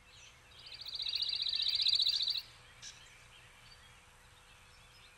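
A songbird's fast trill: one run of rapidly repeated high notes, about a dozen a second, lasting about two seconds and growing louder before stopping abruptly, over faint outdoor background.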